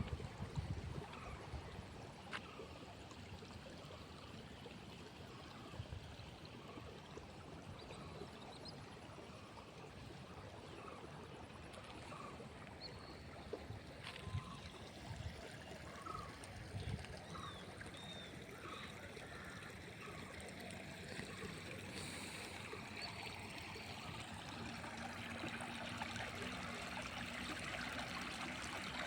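Faint, steady trickle of a small field stream running, with a few short high chirps scattered through the middle.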